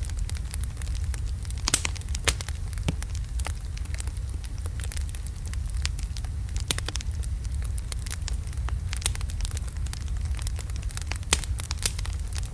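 Wood logs burning in a fireplace: a steady low rumble of the flames with irregular crackles and sharp pops, the loudest pops about two seconds in and near the end.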